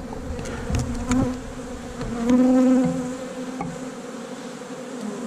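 Honey bees buzzing around an opened hive, a steady droning hum that swells louder as bees fly close by, about two seconds in and again near the end. A few light knocks of frames or hive tool sound in the first second or so.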